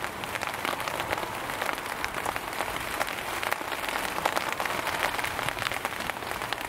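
Steady rain, with many separate drops splashing onto a wet surface covered in standing water.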